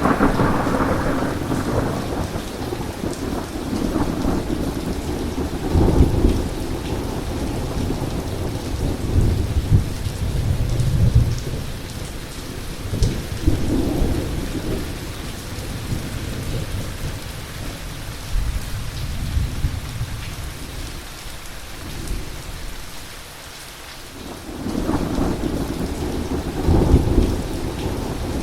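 Heavy rain falling steadily with thunder rumbling again and again, swelling and fading. The thunder eases off briefly about three-quarters of the way through, then a fresh rumble builds near the end.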